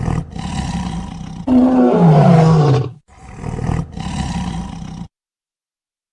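Dinosaur roar sound effect: a rough growl, then a loud roar that falls in pitch, then a second growl that cuts off about five seconds in.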